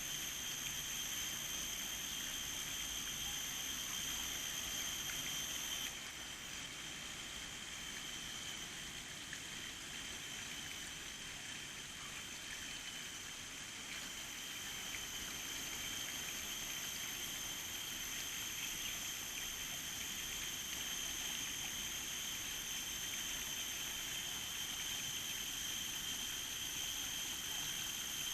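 Steady outdoor water ambience, with a continuous high-pitched whine held through it; it drops slightly in level about six seconds in.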